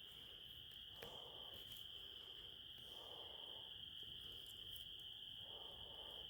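Faint night ambience led by a steady high-pitched insect chorus, typical of crickets, running unbroken. Soft lower sounds recur about every two seconds, and a few faint clicks fall in between, one about a second in.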